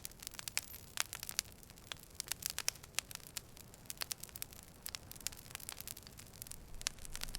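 Campfire crackling: irregular sharp pops and snaps of burning wood over a steady low hiss.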